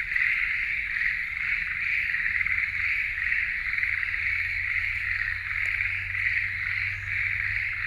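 A dense chorus of many frogs calling together: a steady, fast, pulsing trill.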